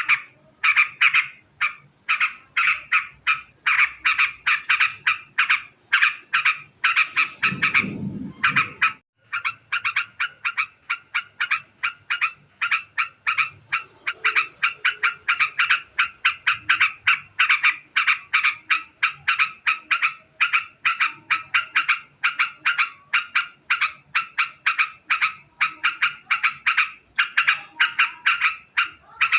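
Yellow-vented bulbul giving its long, very fast chattering call: a continuous run of sharp, quick notes, about five a second, with a brief pause around nine seconds in. A short low rumble sounds under the calls at about eight seconds.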